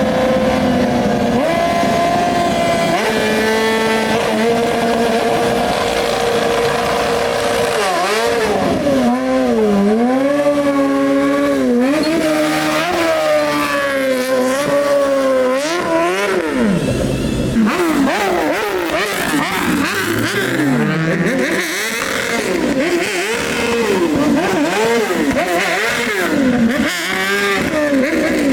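Loud BMW motorcycle engine held at steady revs for several seconds, then revved up and down over and over, the rev sweeps coming quicker in the second half.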